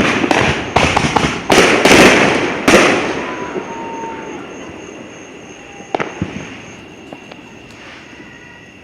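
Fireworks exploding: a rapid cluster of loud bangs in the first three seconds, trailing off into a rumbling echo, then a few fainter, sharper pops about six to seven and a half seconds in.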